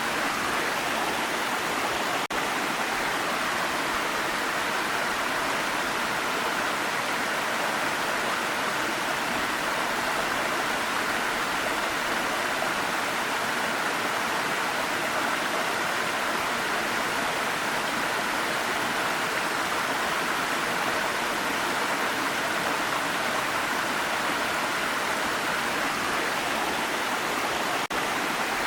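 Waterfall: a steady, unbroken rush of falling water, with a faint click about two seconds in and another near the end.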